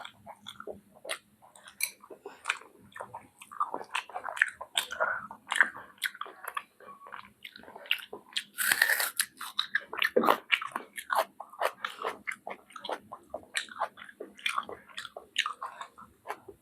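Close-miked chewing and biting of spicy chicken curry: many quick, irregular wet crunches and clicks, with a louder breathy rush about halfway through.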